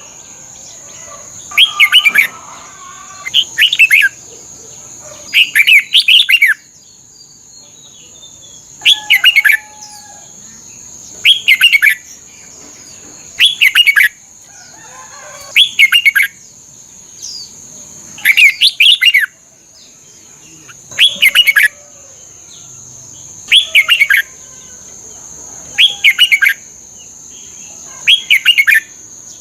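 Red-whiskered bulbul singing short, loud warbled phrases, one about every two seconds, over a steady high thin whine.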